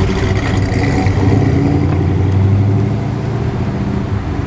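A car's engine running with a low, steady note as the car drives off. The note rises slightly about a second in, then eases off near the end.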